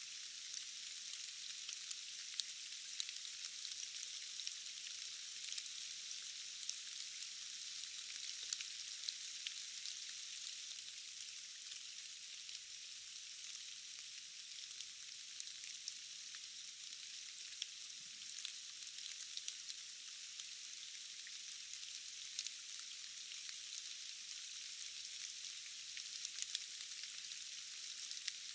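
Steady rain falling in a forest: an even high hiss with no low rumble, dotted with many small sharp drop ticks.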